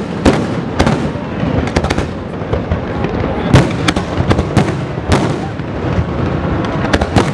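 Fireworks display: aerial shells bursting in a rapid, irregular series of sharp bangs, about a dozen in a few seconds, over a continuous wash of noise.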